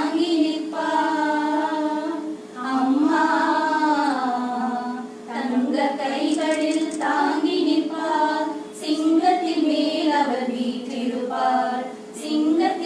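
A group of high voices singing together in long phrases, with a steady drone tone held underneath.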